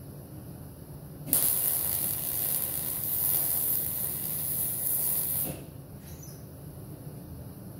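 A steady spraying hiss starts about a second in, runs for about four seconds and cuts off sharply.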